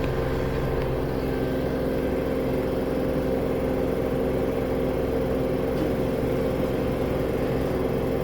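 Samsung AddWash front-load washing machine spinning at speed near the end of its cycle: a steady motor whine with a low hum and no change in pitch.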